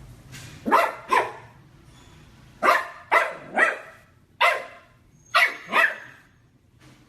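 A dog barking: about eight short barks in clusters of two or three, stopping about six seconds in.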